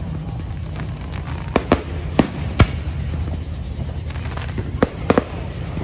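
Fireworks exploding in a show: a series of sharp bangs and cracks at uneven intervals, several close together in the second and third seconds and another few near the end, over a steady low rumble.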